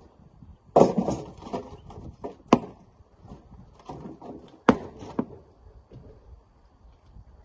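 Rocks knocking and clattering as they are broken and handled: a burst of clatter about a second in, then single sharp strikes near the middle and twice more a little over halfway through, with lighter knocks in between.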